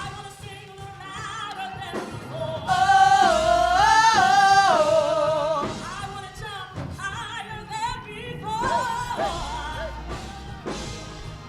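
Gospel praise music with a solo voice singing held, wavering notes over the band, loudest in a long phrase about three to five seconds in.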